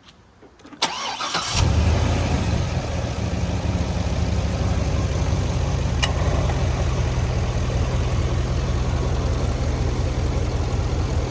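2005 C6 Corvette's LS2 V8 cranked by the starter, catching about a second and a half in, flaring briefly, then settling into a steady idle through its original stock exhaust.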